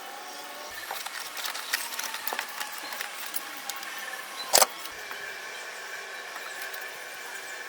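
Small clicks and taps of hand work on metal parts over a steady faint hum, with one sharp knock about four and a half seconds in.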